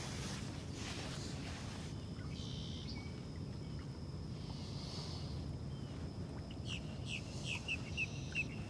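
A bird calling: a short call a couple of seconds in, then a quick run of about seven short, falling chirps near the end, over steady outdoor background noise.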